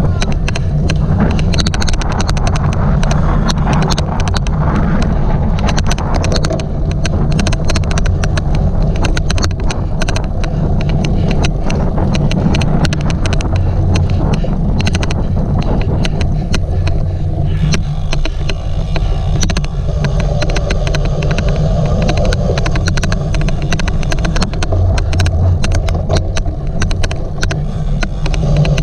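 A cyclocross bike being ridden, heard from an on-bike camera: a loud, steady low rumble, with rapid, irregular clicking running through it throughout. The clicking is the odd clicking noise the rider noted on this recording; its cause is not known.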